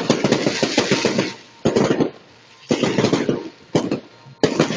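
Fireworks crackling in rapid bursts of many sharp cracks: a long burst of about a second and a half at the start, then shorter bursts with brief gaps between them.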